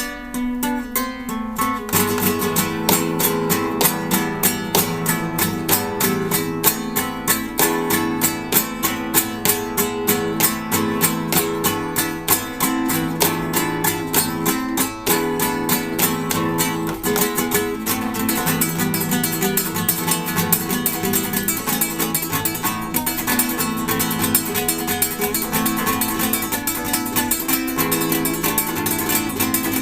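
Acoustic guitar played solo. A few held notes open, then a fast run of rapidly picked notes about two seconds in that keeps going.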